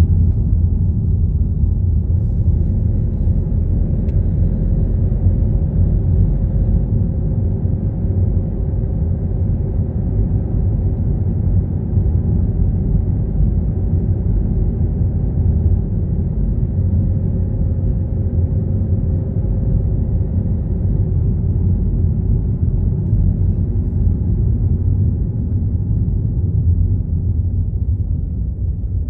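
Car driving along: a steady low rumble of engine and road noise, with a faint steady hum over it for much of the time that fades out about two-thirds of the way through.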